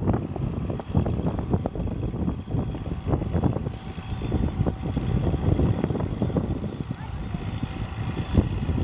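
Antique farm tractor's engine running hard under load in a tractor pull, with an uneven pulsing beat.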